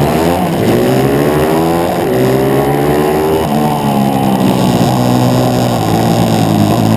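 140cc four-stroke single-cylinder pit bike engine heard on board at race pace, its pitch climbing and dropping back several times as the rider works the throttle and gears.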